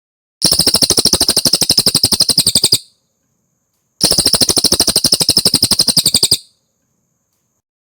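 Cililin bird singing two fast trilled phrases of about two and a half seconds each, a rapid, even string of high notes at roughly fifteen a second, with a pause of about a second between them.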